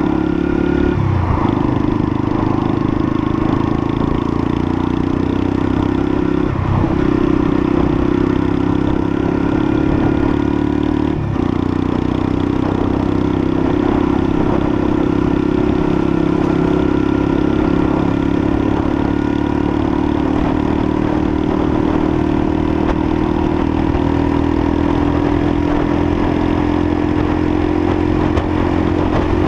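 Lexmoto LSM 125 motorcycle's 125 cc single-cylinder engine running steadily under way. The engine note breaks briefly about a second, seven seconds and eleven seconds in.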